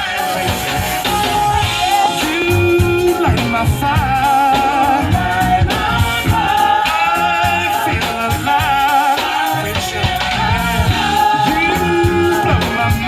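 Live band playing old-school soul music, with a singer holding wavering notes over a steady bass line and drums.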